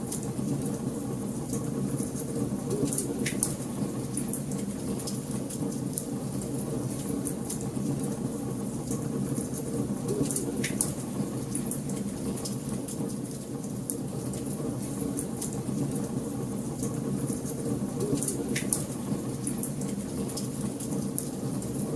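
Wood fire burning in a fireplace: a steady low rumble with constant small crackles and a few louder pops.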